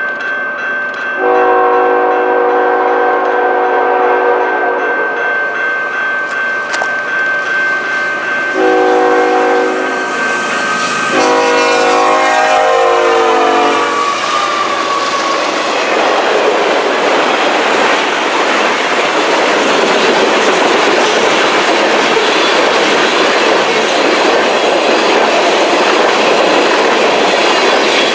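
Locomotive air horn sounded in three blasts, a long one, a shorter one, then a third that drops in pitch as the train passes. The train then rolls by close, the cars rumbling with clickety-clack over the rail joints.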